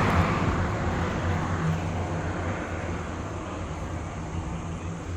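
A sports car's engine running, with a steady low note and a wash of noise that fade gradually as it moves away.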